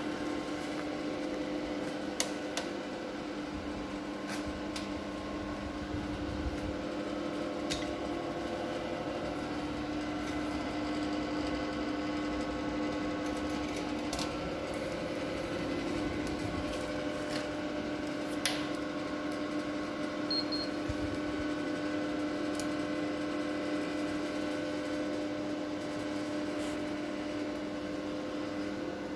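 Electric fan of a ducted fireplace running with a steady hum, with a few short sharp clicks now and then.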